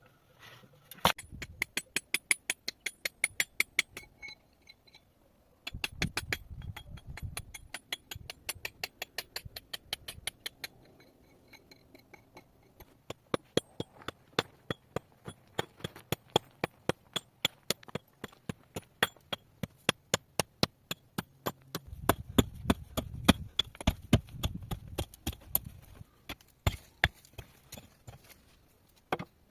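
Rapid, evenly spaced sharp strikes of a hand tool, about three a second, in runs broken by short pauses.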